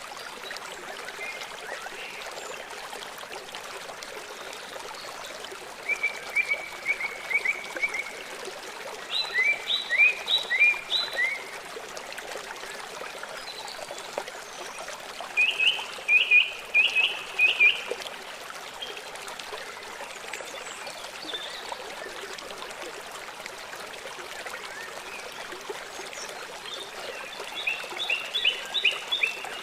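A songbird sings four short phrases of rapid repeated chirping notes, spaced several seconds apart, over a steady hiss of running water.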